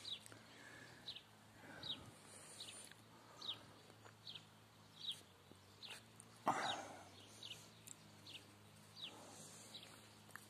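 A bird repeating a short high chirp that slides down in pitch, about once every second, over a faint steady low hum. About six and a half seconds in comes one short, louder burst of noise, the loudest sound here.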